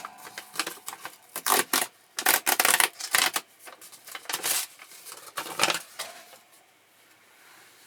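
Paper and parts of an electric paper creasing machine being handled: irregular rustles and sharp clacks in bursts, quieting after about six seconds.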